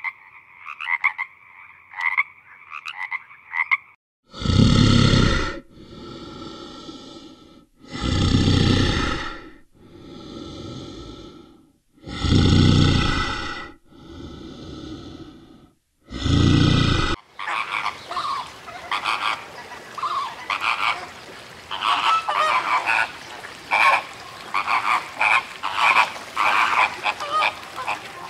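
A run of animal calls in three parts. First come fast rhythmic pulsed calls for about four seconds. Then there are four loud drawn-out calls about four seconds apart, each followed by a quieter, longer call. From a little after the middle to the end, many animals call at once in a dense overlapping chatter.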